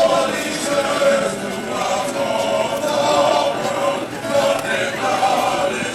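A choir singing, many voices together in a sustained sung passage.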